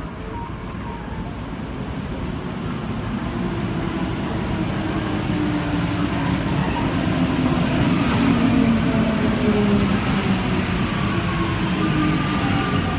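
Alstom rubber-tyred Santiago Metro train running through the station, growing louder over the first eight seconds, with its motor whine falling in pitch.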